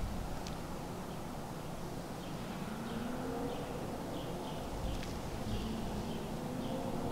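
A run of short, high bird chirps repeating two or three times a second, over a low steady outdoor hum, with a couple of faint clicks.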